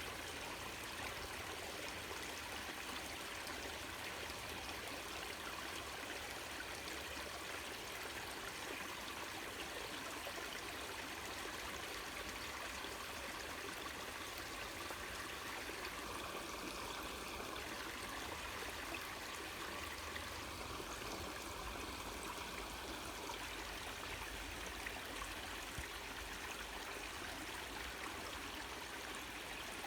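Water of a small waterfall rushing and splashing steadily, an even, unbroken hiss of falling and flowing water.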